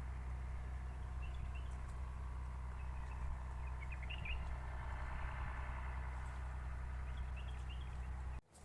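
Day-old baby bird giving faint, short, high peeping chirps in a few small clusters, over a steady low hum.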